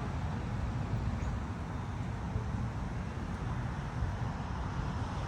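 Steady outdoor background rumble, strongest in the low end, with no distinct events.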